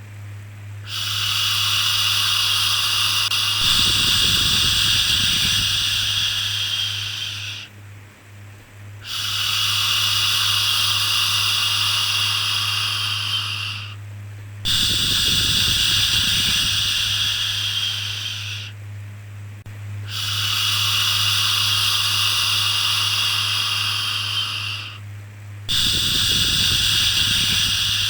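Rhythmic shushing to soothe a baby: long drawn-out 'shhh' sounds, each lasting five to six seconds, repeated with brief pauses between them, over a steady low hum.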